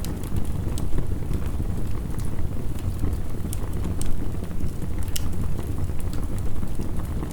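Wood fire crackling, with scattered sharp pops, over a steady low rush of heavy rain.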